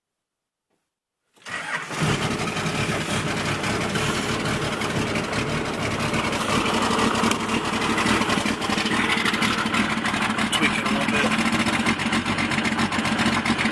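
1995 Dodge Ram 2500's 5.9-litre 12-valve Cummins inline-six diesel, cold, running at a fast idle with heavy, rapid diesel clatter. The sound begins abruptly about a second and a half in after dead silence.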